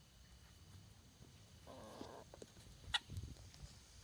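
Chickens in a coop: one short, rough hen call about two seconds in, followed by a single sharp click a second later.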